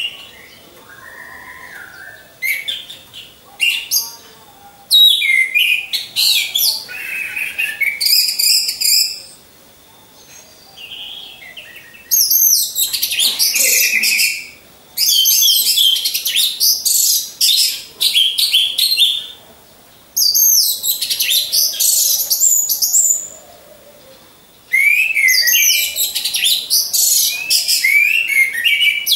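Orange-headed thrushes (anis merah) singing: fast, varied high-pitched song in bursts of a few seconds, separated by short pauses filled with quieter calls.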